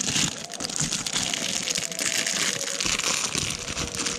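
Packaging crinkling and rustling as it is handled, with many small clicks.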